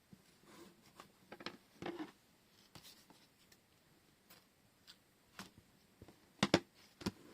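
Crafting handling sounds from washi tape and paper: scattered short rustles and light taps, with a sharp cluster of clicks near the end.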